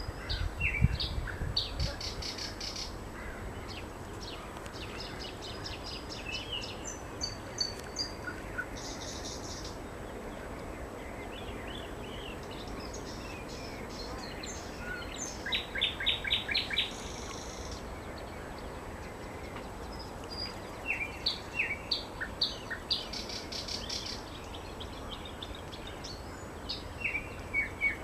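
Nightingale singing: varied phrases of rapid repeated notes and short whistles, coming in bursts with brief pauses between them. A brief low rumble sounds at the very start.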